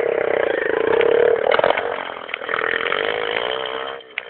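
110cc pit bike's small single-cylinder four-stroke engine revving hard under load on an uphill climb, its pitch rising and falling with the throttle, then dropping away sharply near the end.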